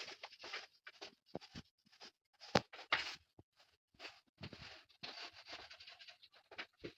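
Rustling, scraping and light clicks of household things being handled during cleaning, with one sharp knock about two and a half seconds in.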